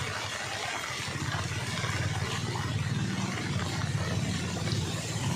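A motor vehicle engine running steadily, with an even hiss of noise above it.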